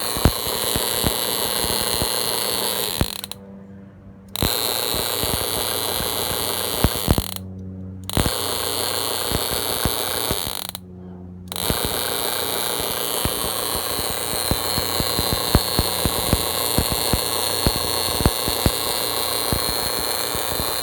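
Toyota ignition module and coil firing on a test bench: a steady high whine with irregular sharp snapping clicks. The sound cuts out briefly three times in the first twelve seconds, then runs on.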